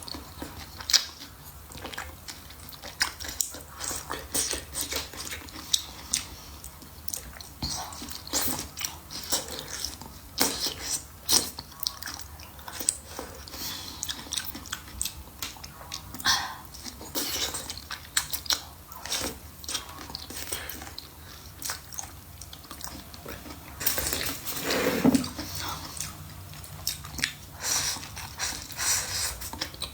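A person chewing and biting food close to the microphone: irregular wet smacks and crunches. A louder, longer stretch of eating sound comes about 24 seconds in.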